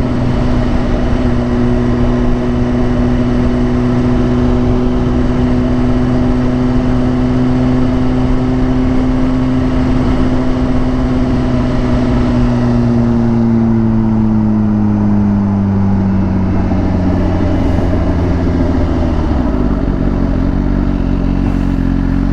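Motorcycle engine running at a steady cruise with wind rush over the helmet mic; about twelve seconds in the engine note slowly falls as the bike slows, and it changes again near the end.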